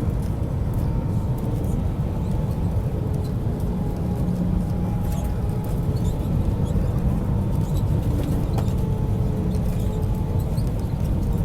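Airliner noise during a landing in strong wind: a steady low rumble with faint steady tones above it and a few light clicks.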